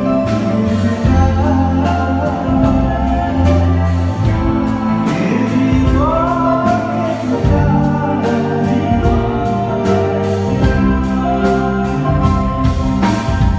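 A live band playing a song, with a singing voice over held bass notes and steady drum hits.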